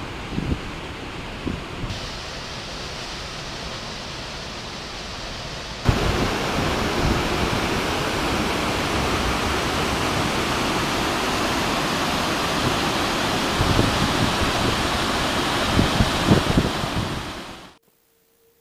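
Waterfall rushing steadily, jumping abruptly louder about six seconds in, then fading away just before the end.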